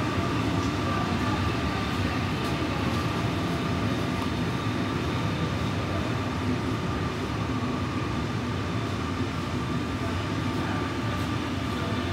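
A train of passenger coaches rolls slowly along the platform, giving a steady rumble and hum with a constant high-pitched tone running through it.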